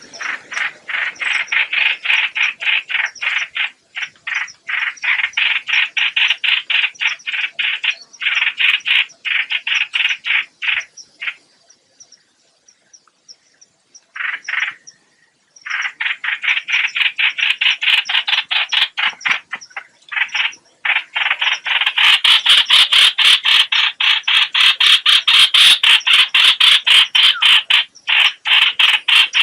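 Lure recording of the bird called chim hoạch hoạch in Vietnamese, giving long runs of rapid, harsh, repeated notes, several a second, that break off for a few seconds midway and then resume more loudly.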